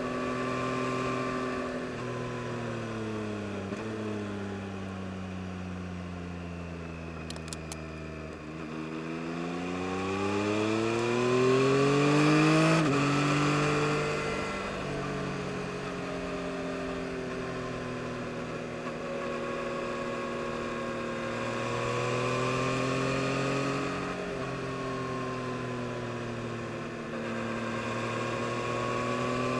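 2022 Yamaha MT-09 SP's inline three-cylinder engine under way: the revs fall for several seconds, climb again to a peak about twelve seconds in, then drop sharply on an upshift. After that the engine holds fairly steady with gentle rises and dips.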